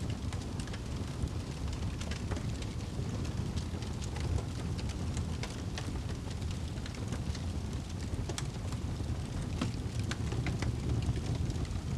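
Wood campfire crackling, with scattered sharp pops over a steady low rumble; the pops come more often in the second half.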